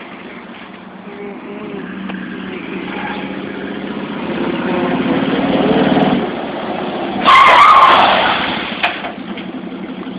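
Red pickup truck's engine revving hard through a burnout, its pitch climbing for several seconds before it drops off about six seconds in, with tyre noise underneath. A loud screech breaks out about seven seconds in and fades within a second.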